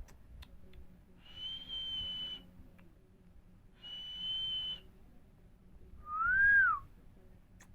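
Pet green parrot whistling three times: two long, level, high whistles, then a louder, lower whistle that rises and falls.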